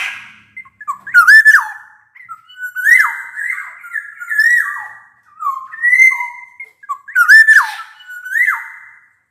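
Black-naped oriole singing: a run of loud, fluty whistles, one after another with short pauses, each sliding up or down in pitch.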